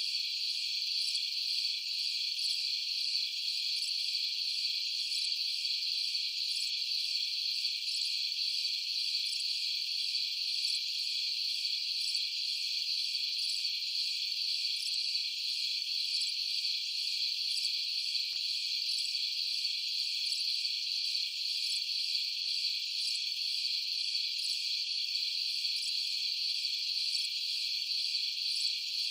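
Night insect chorus: crickets trilling continuously in a dense, unbroken high-pitched wall of sound, with a faint regular pulsing in the highest notes.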